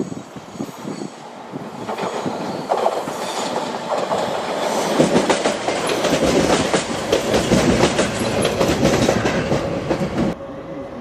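Siemens Desiro diesel railcar passing close by, its wheels clattering over rail joints and points, getting louder as it nears. The sound cuts off abruptly near the end.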